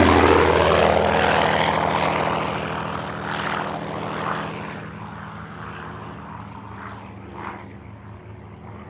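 Yak-3 fighter's propeller engine droning as the aircraft flies away after a pass, fading steadily.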